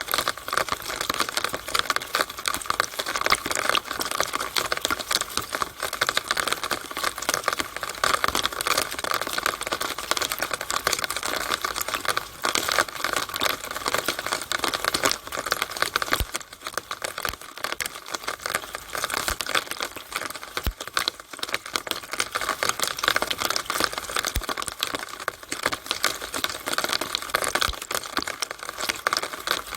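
Rainwater running and splashing through a rain gutter downspout: a steady, dense crackle of drops and trickles.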